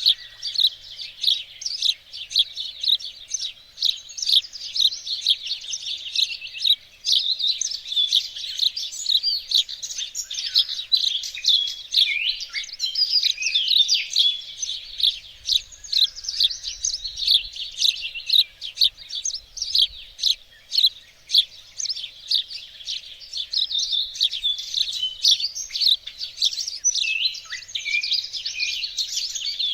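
Chorus of several small songbirds chirping and singing continuously, many quick overlapping high notes and trills.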